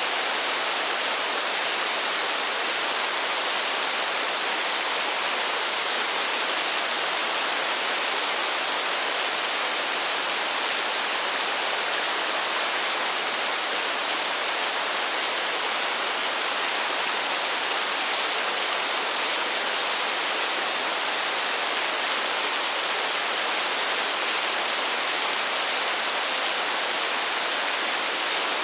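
Steady rainfall in a forest: an even, unbroken hiss of rain with no separate drops or pauses.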